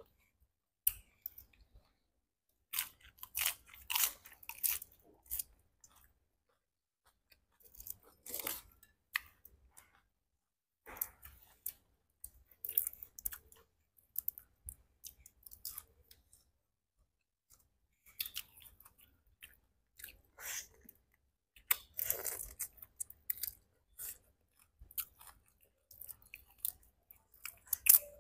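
People chewing and crunching mala-spiced shrimp, in irregular bursts of short crisp sounds with brief pauses between them.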